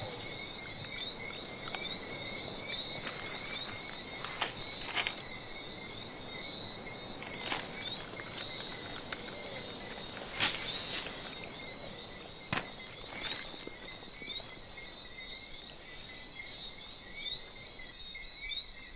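Night chorus of chirping insects, steady and repetitive at two pitches, with scattered rustles and snaps of raccoons moving and feeding in banana plants.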